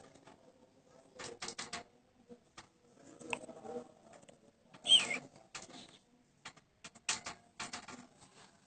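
Common iora (cipoh) making scratchy rustling and clicking noises in several short clusters, with one short falling chirp about five seconds in.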